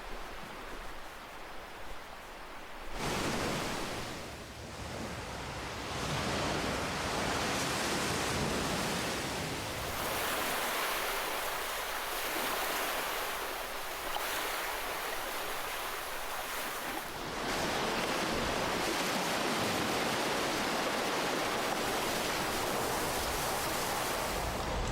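Ocean waves washing in on the shore: a steady rushing noise, quieter at first, then swelling with waves about three seconds in and again around six and ten seconds, with the loudest, longest wash from about seventeen seconds.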